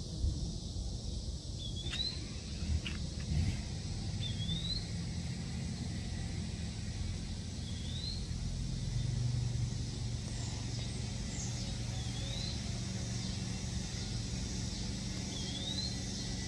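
Outdoor ambience: a steady low rumble, with a bird repeating a short rising chirp every two to four seconds. A few soft knocks in the first few seconds.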